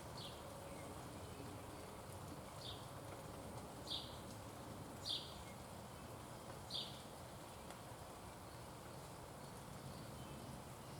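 A bird giving five short, high call notes at uneven intervals over a steady outdoor background hum.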